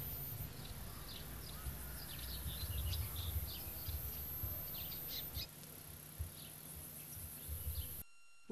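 Small birds chirping in quick, scattered calls over a low, uneven rumble; the chirping stops about five seconds in, and the sound drops out just before the end.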